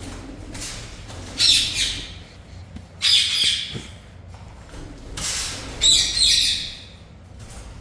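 Caged aviary birds calling in three bouts of harsh, high chirps and squawks, with quieter spells between.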